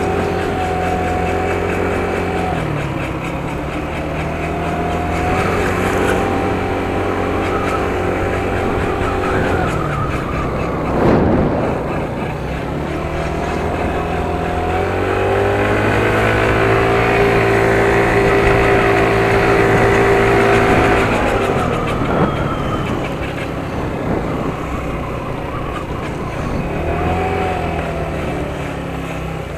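Yamaha R1 Mini pocket bike's small engine running under way. Its note holds steady for stretches, then rises and falls several times as the revs go up and down, with a short burst of noise about eleven seconds in.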